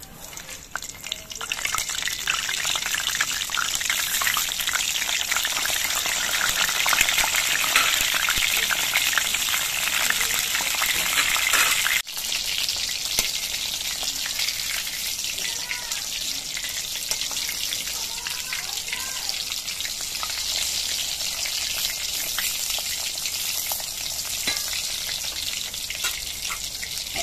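Whole long eggplants sizzling and crackling in hot oil in a metal kadai (wok); the sizzle starts about a second in as they go into the oil. It breaks off for an instant about halfway, then goes on a little quieter.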